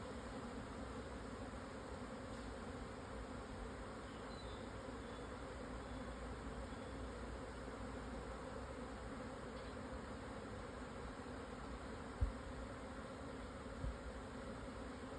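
Swarm of Japanese honeybees buzzing, a steady dense hum of many wings in flight while the colony swarms to a new home. Two short low knocks come near the end.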